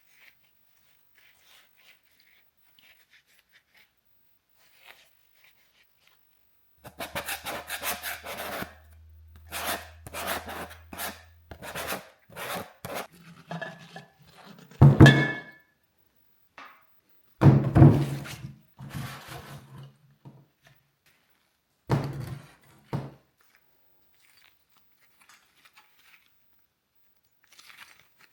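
Bursts of scraping and rubbing with several heavy knocks, the loudest about halfway through. A low steady hum runs under the first few seconds of the scraping.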